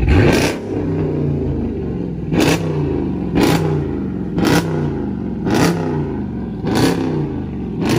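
Car engine idling and revved in short, sharp throttle blips: a loud one at the start, then about one a second, seven in all.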